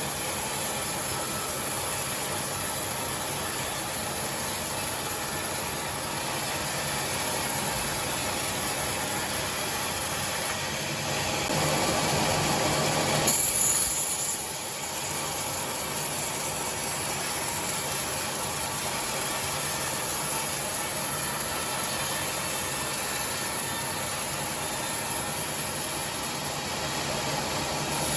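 Sawmill saw running steadily while ripping timber into boards, growing louder for about three seconds near the middle before settling back to a steady run.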